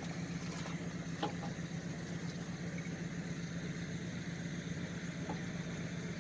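A motorboat engine running at a steady, even hum.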